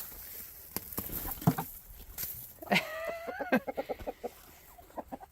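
Chickens vocalising: a few scattered clicks and rustles, then about three seconds in one drawn-out call that rises slightly, followed by a quick run of short clucks and a few more clucks near the end.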